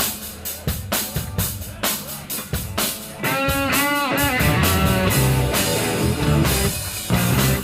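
Live rock band: drum kit and bass guitar playing alone for about three seconds, then the full band comes in louder, with electric guitars and a high note that bends up and down.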